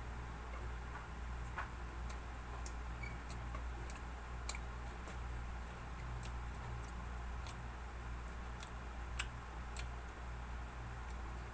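Wet mouth clicks and smacks from chewing soft loaf bread spread with margarine, coming about every half second or so, over a steady low hum.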